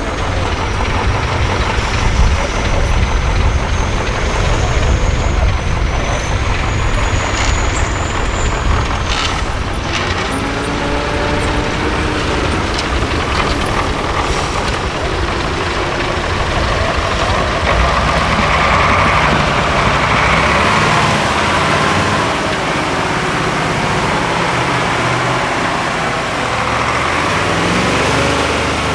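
Heavy diesel engine of a 6x6 Ural prototype truck working off-road, a deep rumble with its pitch rising and falling under changing throttle. A high whine climbs over the first several seconds, and short hisses come about nine to ten seconds in.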